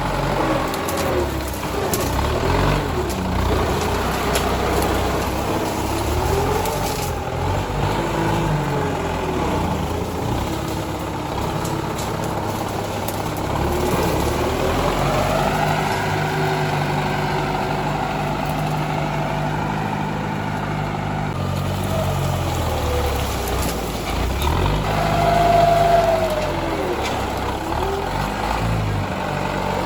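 Tractor engine running under changing load, its pitch rising and falling again and again, loudest with a brief higher whine near the end.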